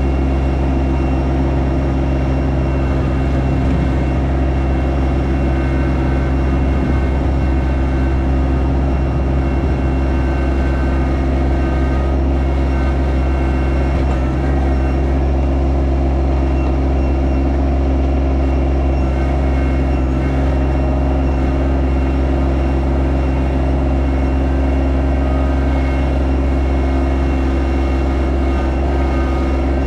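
Yanmar SA324 compact tractor's diesel engine running steadily at constant speed.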